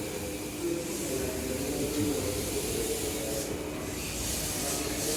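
Electric commuter train at a station platform: a steady low hum with hissing air, which grows brighter about three and a half seconds in.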